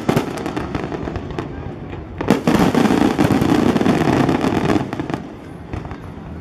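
Aerial fireworks display: rapid crackling reports, then a loud burst about two seconds in followed by a dense wash of crackle that dies down near the end.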